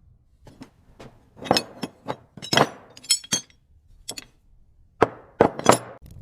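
Metal pieces clinking and knocking together: about ten sharp, irregularly spaced strikes, some ringing briefly.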